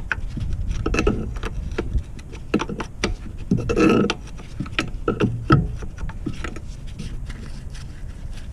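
Irregular metallic clicks, knocks and clanks of hand tools and car parts being handled, with a longer clattering burst about halfway through. A low wind rumble on the microphone runs underneath.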